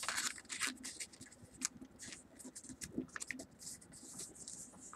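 Sheet of paper being folded and creased by hand, rustling and scraping in quick irregular strokes.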